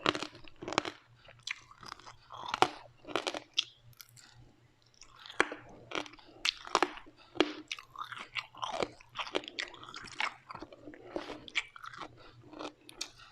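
Close-miked chewing of crunchy food, with irregular crisp crunches one after another and a short lull about four seconds in.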